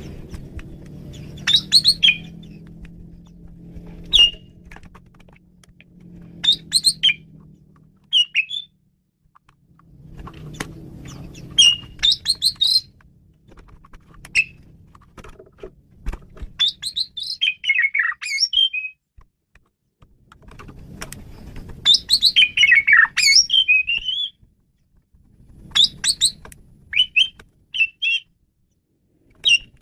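Male Asian pied starling (jalak suren) singing a varied song in short bursts of quick whistled and chattering phrases, with pauses of a second or two between them. A low hum sits underneath at times.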